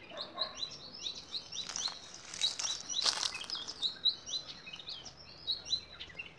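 Small birds chirping busily, many short repeated high chirps overlapping throughout, with a few brief rustling noises about two to three seconds in.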